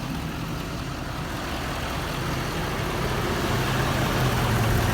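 Ford 6.7 L Powerstroke V8 turbo diesel idling with a steady low hum that grows slightly louder. It is quiet for a diesel.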